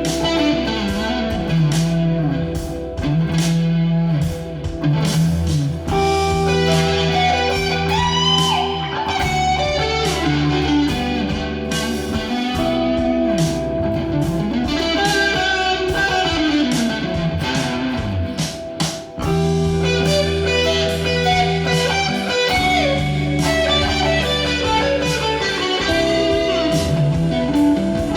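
Instrumental rock track played on Fazley FTL200NT electric guitars over bass guitar and programmed drums, with lead guitar notes bending in pitch.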